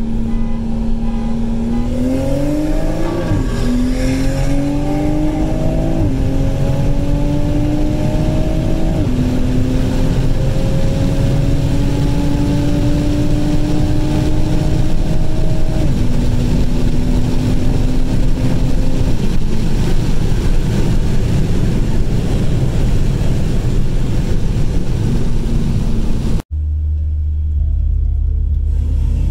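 2020 Toyota Supra engine heard from inside the cabin under hard acceleration, its pitch climbing and dropping back at several upshifts, then holding steady at speed. Near the end, after a sudden cut, the engine idles low at a stop.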